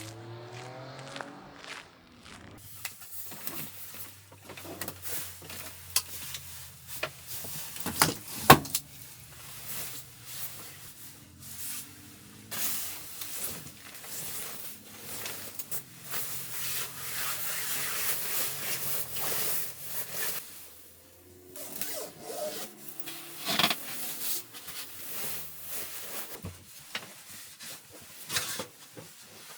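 Irregular rubbing, rustling and clicking of objects being handled, with one sharp click about eight and a half seconds in.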